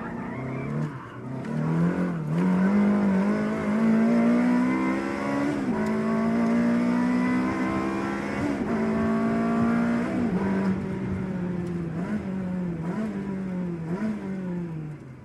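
Ferrari engine heard from on board while driving, its pitch climbing about a second in and then held high under throttle. The pitch dips briefly several times, and the engine fades away at the end.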